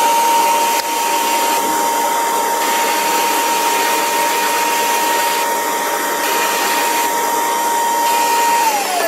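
Small handheld vacuum cleaner running at a steady high whine, clearing putty sanding dust off a plastic model, then switched off and winding down with falling pitch near the end.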